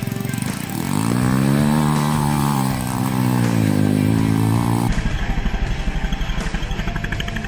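Small single-cylinder motorcycle engine of a Honda Wave 100 built into a dirt bike, revved up and back down over about four seconds. After a sudden change it idles with an even pulsing beat.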